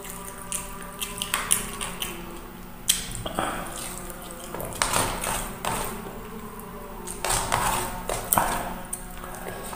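Close-up eating sounds of a person chewing chicken feet adobo with rice by hand: wet chewing and lip smacks with many short sharp clicks, over a steady low hum.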